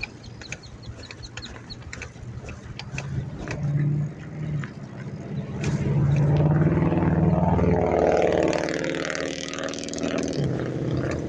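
A motor vehicle's engine running close by in traffic. It grows louder from about four seconds in and eases off near the end, with a few light clicks in the first seconds.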